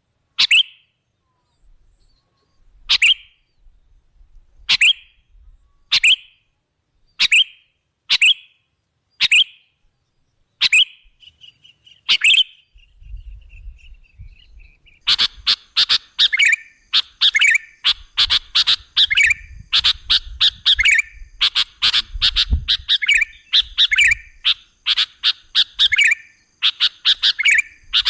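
Sooty-headed bulbul (kutilang) calls. In the first half there are sharp single falling notes about every one and a half seconds; from about halfway the calls come in quick, dense clusters.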